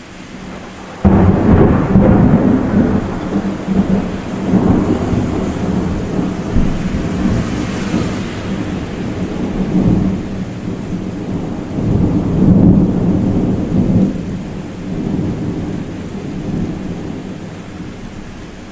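Thunder: a sudden clap about a second in, then a long rolling rumble that swells several times and slowly dies away toward the end.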